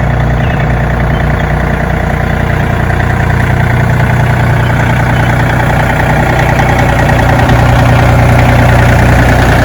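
Large John Deere farm tractor's engine running steadily, a little louder about seven and a half seconds in.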